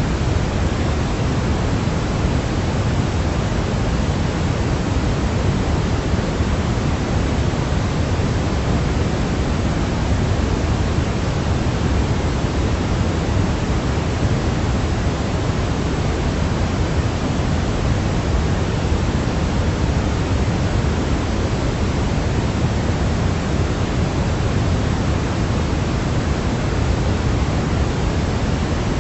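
Steady, unchanging sleep-aid noise track, a continuous hiss with most of its weight in the low end, like pink noise.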